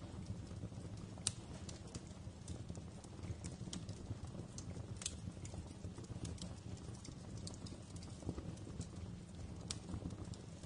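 Fire crackling in a fireplace: irregular sharp pops and snaps, a few louder than the rest, over a low steady rumble of flame.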